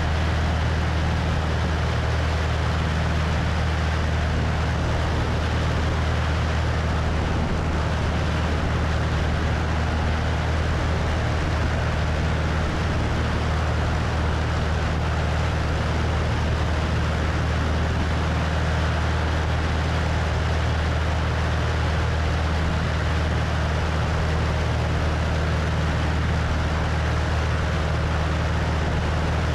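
Cessna 172's piston engine and propeller droning steadily in flight, heard from outside on the wing with rushing wind over the microphone.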